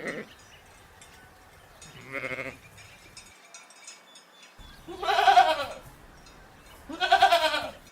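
Goat bleating: a short bleat about two seconds in, then two longer, louder, quavering bleats near the middle and near the end.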